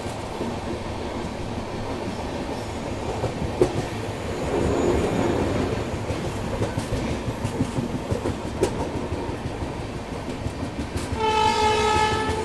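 Shatabdi Express passenger train running round a curve: a steady rumble of wheels on rail with a few sharp clicks. Near the end the locomotive sounds its horn once, a steady blast of about a second.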